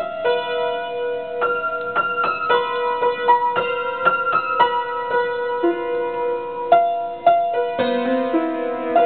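Solo piano playing a slow improvised melody of single notes, each struck and left to ring, with lower notes joining about two-thirds of the way through.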